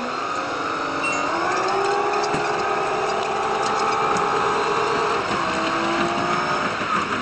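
Diesel train running, its engine note rising over about a second, then holding steady and dropping away near the end, over a constant rumble of the running gear.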